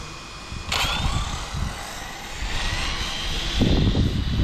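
Arrma Typhon 8S RC car's brushless electric motor starting suddenly with a high whine that rises in pitch as the car accelerates. A low rumble comes near the end.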